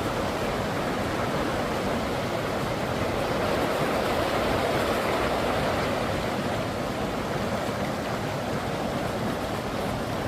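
Fast river rushing over rapids: a steady rush of water that swells slightly midway.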